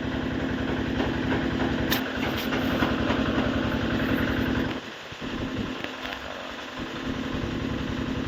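An engine idling steadily, with an even low rumble and a steady hum. The rumble thins out for a moment about five seconds in. A sharp metallic click comes about two seconds in.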